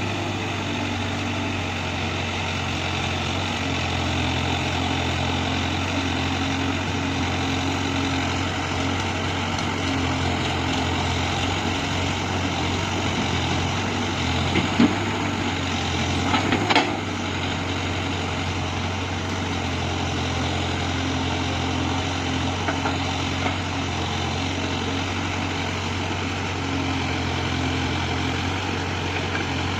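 Diesel engine running steadily under a constant low hum, with a few brief sharp knocks about halfway through.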